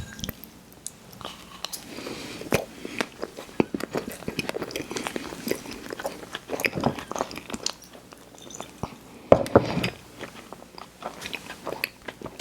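A person biting and chewing sweets close to the microphone, with many small wet mouth clicks and a louder bite about nine and a half seconds in.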